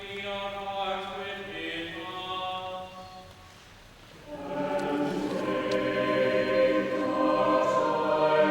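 Choir singing in a reverberant cathedral: a softer phrase, a brief pause about three seconds in, then a fuller, louder passage.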